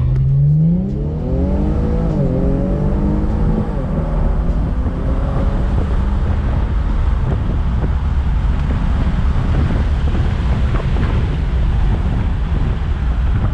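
Muffler-deleted 3.0 twin-turbo V6 of an Infiniti Q50 under hard acceleration: the engine note climbs steeply, dips briefly at two upshifts, then climbs again. After about four seconds it settles into a loud, steady roar of engine, road and wind at speed.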